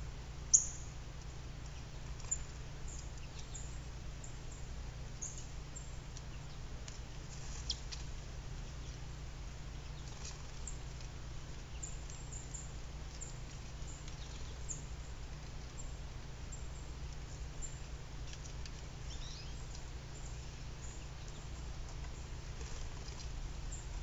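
Short, high chips and calls of small birds at the feeders, scattered through, over a steady low hum. The loudest is a sharp high chip about half a second in.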